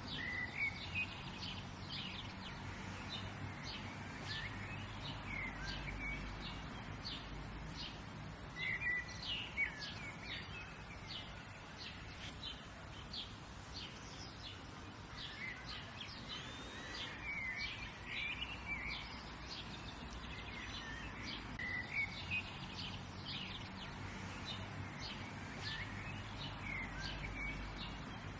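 Several songbirds chirping and trilling over a steady low rumble and hiss of outdoor background noise.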